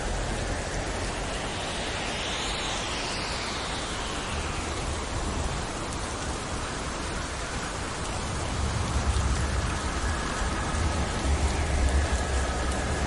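Steady heavy rain falling. A swish swells and fades about two to three seconds in, and from about two-thirds of the way through a low rumble of thunder builds beneath the rain.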